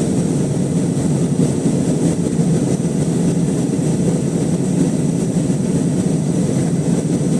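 Steady cabin noise inside an Airbus A320 heard from a rear seat: a loud, even rumble of the CFM56 engines and airflow, with a faint high whine above it.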